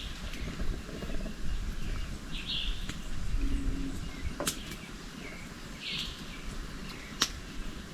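A bird gives two short chirps a few seconds apart over open-air background noise, with two sharp clicks in the second half and a low rumble near the middle.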